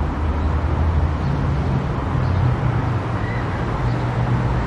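A car driving at speed on an expressway: a steady low drone of engine and tyre rumble with even road noise.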